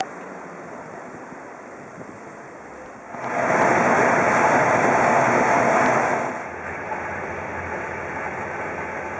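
Steady rushing and rumbling noise of a CityNightLine sleeper car in motion. It is quieter and steady at first, much louder for about three seconds from three seconds in, then settles to a lower steady rumble.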